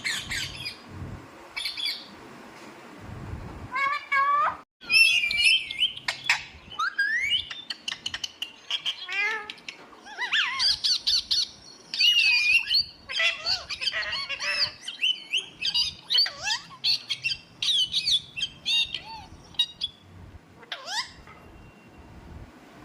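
Pet parrot squawking and chirping in quick runs of short calls and rising whistles, busiest in the middle stretch, with a brief dropout just before five seconds in.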